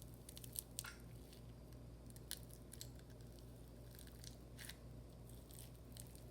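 Foam bead slime being squeezed and worked by hand, giving off faint, scattered crunchy crackles and pops over a low room hum.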